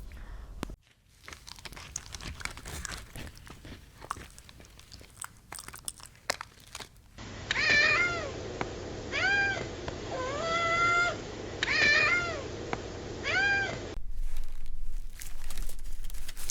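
An animal calling five times, each call a pitched cry that rises and falls, one of them held steadier; before the calls, only faint scattered clicks and rustling.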